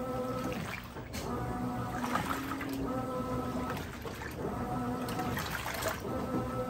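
Brastemp 17 kg top-loading washing machine agitating a load: the drive motor whines in short runs of about a second, stopping and starting again roughly every one and a half seconds as the wash action reverses, with water sloshing in the drum.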